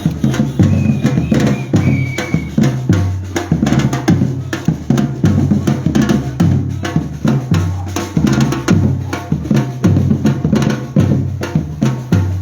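Batucada percussion group playing: deep bass drums beat about once a second under fast, dense snare and hand-drum strokes.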